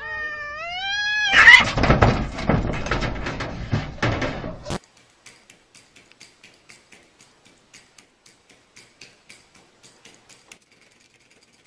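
A cat meowing in a long, wavering call, followed about a second in by a loud, harsh, noisy stretch of a few seconds that cuts off suddenly. After that there are only faint clicks, about three a second.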